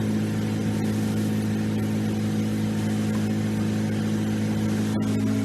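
Truck-mounted air compressor running steadily: a constant engine-like hum with a hiss of air over it.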